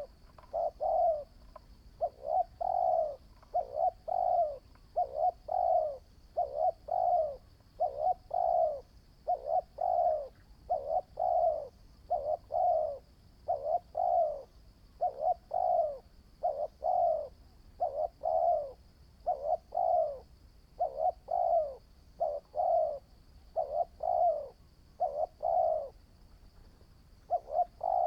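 Caged spotted dove cooing over and over: runs of low, rounded coos, each about half a second long, with short pauses between phrases. A faint steady high-pitched whine runs underneath.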